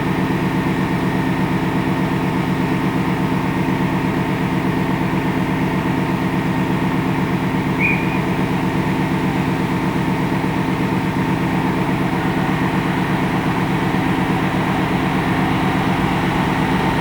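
A railway diesel engine idling steadily with a fast, even pulse, with a steady higher hum over it. A short high chirp comes about eight seconds in.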